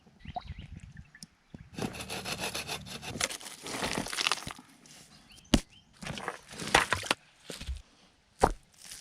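Hand sawing of wood: two spells of rasping saw strokes, with a couple of sharp knocks in between and near the end.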